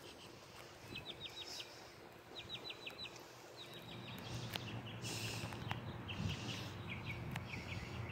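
A bird singing outdoors: short phrases of four or five quick, high notes, repeated about once a second, over a faint low rumble.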